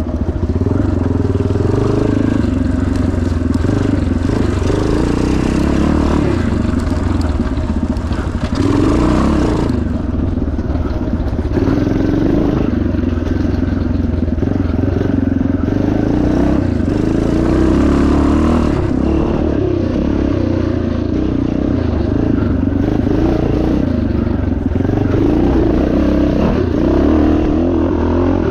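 1977 Yamaha TT500's single-cylinder four-stroke engine running hard under race riding, its pitch rising and falling as the throttle opens and closes.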